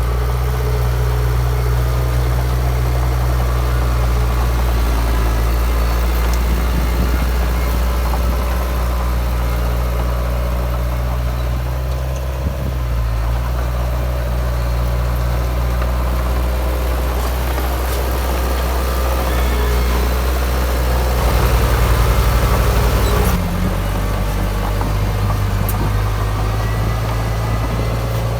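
Heavy diesel engine of a Komatsu D53P bulldozer running steadily while working, with its pitch shifting about halfway through. Near the end it gets louder for about two seconds, then drops back.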